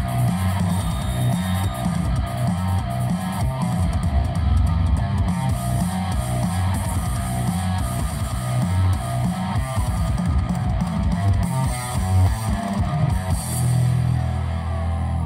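Loud rock-style music with guitar and drums, carried by heavy, pounding bass, played through a large parade sound system. Near the end the beat gives way to a long held bass note.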